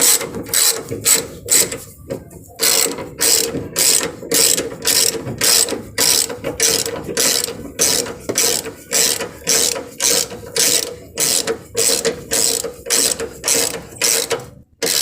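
Socket ratchet wrench clicking in quick back-and-forth strokes, about two a second, running bolts down before their final tightening. The strokes pause briefly about two seconds in.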